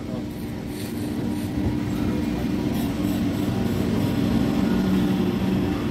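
Chennai suburban electric multiple-unit (EMU) train running in along the platform, its rumble growing steadily louder as the cars come alongside, with a steady low hum.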